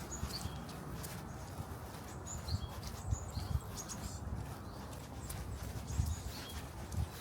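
Short low sounds from a nearby animal, several a second or more apart, over a steady outdoor background with brief high chirps.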